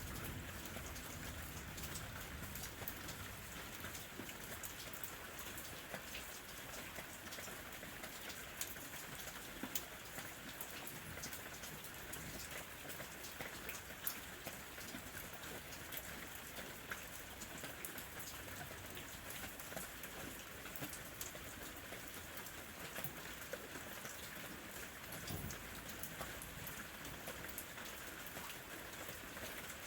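Gentle rain falling steadily: an even hiss with many small drop ticks scattered through it.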